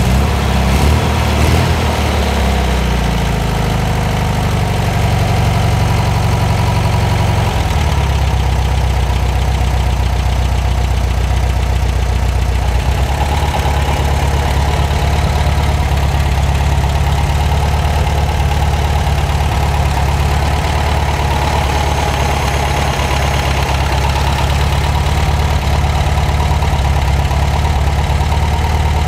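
Freshly built big-bore 40 hp air-cooled VW flat-four running through a Vintage Speed Abarth muffler with four chrome tips. The engine speed wavers for the first several seconds while the carburetor is worked, then settles into a steady idle.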